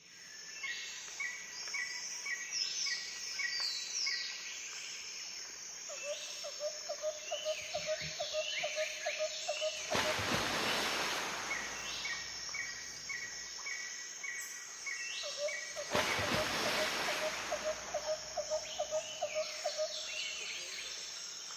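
Birds singing and calling, with a repeated high chirping phrase and a lower rapid trill. Two swells of rushing noise come about ten and sixteen seconds in.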